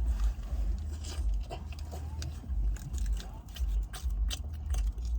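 People chewing and biting into breakfast burritos, with scattered small clicks of eating, over a steady low rumble that suits a car's idling engine or running air conditioning.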